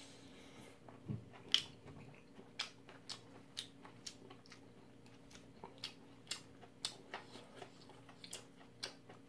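Close-up chewing of a mouthful of noodles: a string of short mouth clicks and smacks at an uneven pace, roughly two a second, with a faint steady hum underneath.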